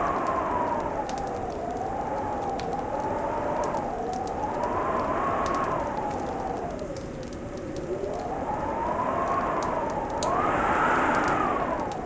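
Wind howling, its pitch rising and falling in slow swells every few seconds, over the crackle and small pops of a fireplace fire.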